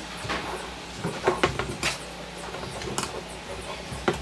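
A handful of light knocks and clicks at irregular intervals, with two close together a little over a second in, over a steady low hum.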